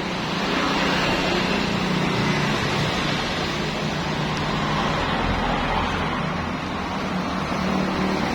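A motor running steadily, a constant low drone with a hiss over it, slightly louder from about a second in.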